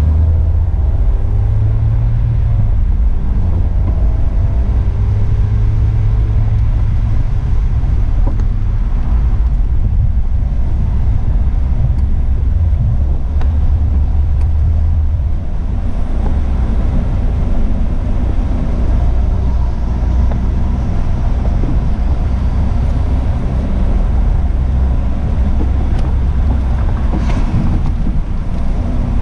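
Toyota Supra with a straight-piped Magnaflow xMod exhaust (muffler delete, catless downpipe, exhaust valves open) driving: a loud, deep exhaust drone, mostly steady with slight rises and falls in pitch early on.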